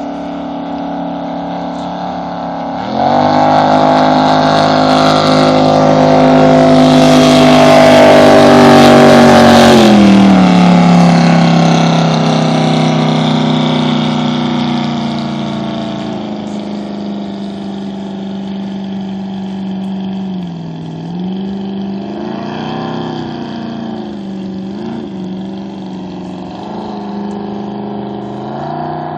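Custom jet boat's 464 cubic-inch big-block V8, bored .060 over, running. About three seconds in the throttle opens and the engine gets suddenly much louder, climbing slightly in pitch for several seconds. It then eases back to a lower steady note, with a few small throttle changes near the middle.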